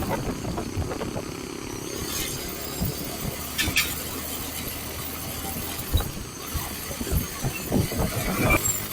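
Motorcycle engine running steadily at low revs, with scattered irregular low thumps.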